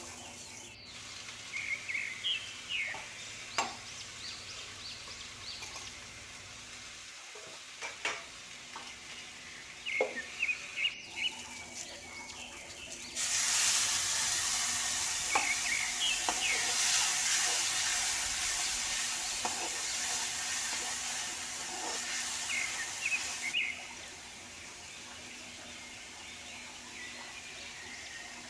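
Chopped onions frying in oil in a kadhai, with a steel slotted spatula scraping and tapping the pan. About 13 seconds in, a louder sizzle starts as a wet green paste goes into the hot oil, and it stops abruptly about ten seconds later.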